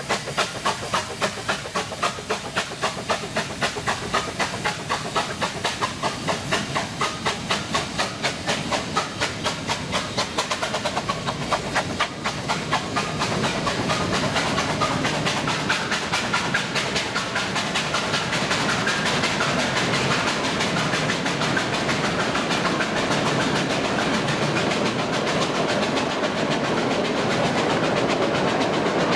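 Narrow-gauge steam locomotive working past, its exhaust beating about four times a second with hissing steam. After about twelve seconds the beats give way to a steady rumble and clatter of carriages and wagons rolling by on the rails.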